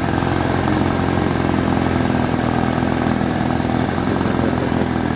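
1952 Mercury KF5 two-stroke outboard motor running steadily under way, its pitch and level unchanging.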